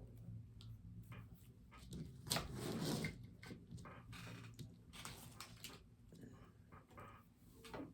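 Faint rustling, small clicks and taps of plastic artificial flowers and foliage being handled and arranged on a wreath, loudest in a brief rustle about two to three seconds in. A steady low hum runs underneath.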